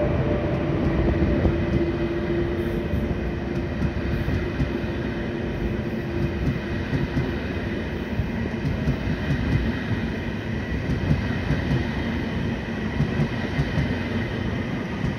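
ÖBB Railjet passenger carriages rolling past as the train pulls out of the station, making a steady rumble of wheels on rail. A faint steady tone under the rumble fades out about halfway through.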